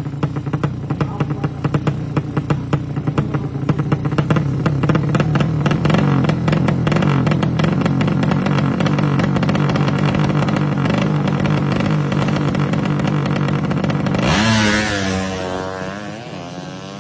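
A 200cc drag-bike engine running with a choppy, uneven beat, swelling a little about five seconds in. About fourteen seconds in the sound changes abruptly to a wavering rise and fall in pitch, then eases off.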